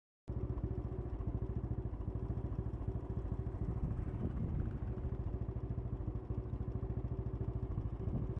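Motorcycle engine running steadily with a rapid, even beat. The sound cuts in suddenly just after the start and stops abruptly at the end.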